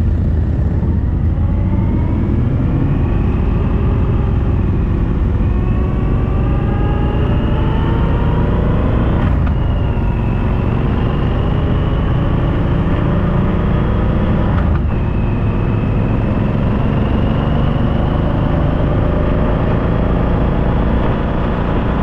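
Suzuki V-Strom motorcycle under way, its engine note climbing in pitch, then dropping sharply at upshifts about 9 and 15 seconds in, over a heavy low rumble of wind and road.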